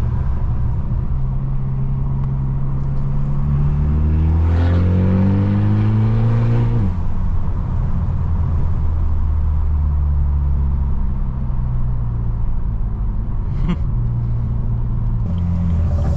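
Straight-piped BMW F30's exhaust drone. About a third of the way in it rises steadily in pitch for roughly three seconds under acceleration, then drops abruptly back to a steady cruising drone. A short sharp crack comes near the end.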